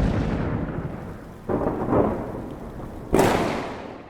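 Deep booms, each starting suddenly and then fading into a long rumble. One is already dying away at the start, fresh ones come about a second and a half in and about three seconds in, and the last fades out near the end.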